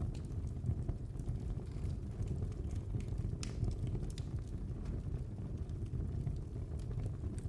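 Wood fire burning in a fireplace: a steady low rumble of the flames with scattered sharp crackles and pops, a couple of the louder pops around the middle.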